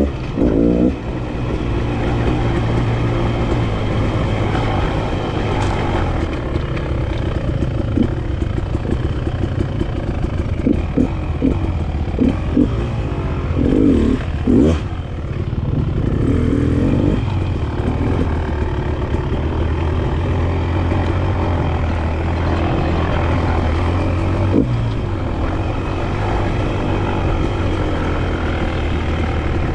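Enduro dirt bike engine running under way on a single track, its note shifting with the throttle, with a few louder surges around the middle.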